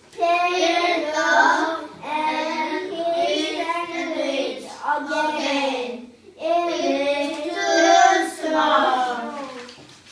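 A child singing a song alone without accompaniment, in several sung phrases with short pauses for breath between them.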